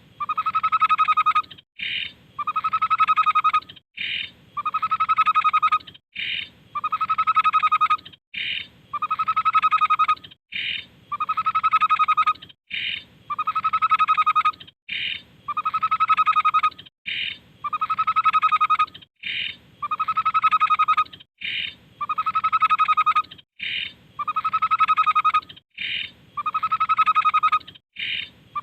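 Tepus babbler song played as a repeating loop: a steady whistled note about a second long, then a short higher note, the same phrase recurring about every two seconds, over a faint low hum.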